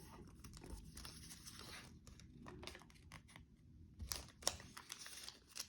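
Faint crinkling and rustling of origami paper being folded and creased by hand, with a few sharper crackles about four seconds in and near the end.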